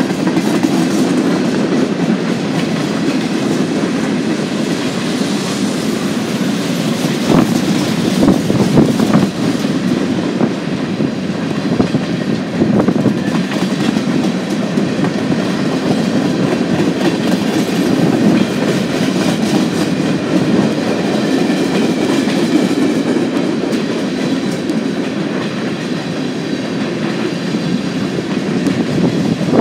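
Freight cars of a mixed manifest train rolling past close by: a steady rumble of steel wheels on rail, with the clickety-clack of wheels over rail joints and a few sharper clicks about seven to nine seconds in.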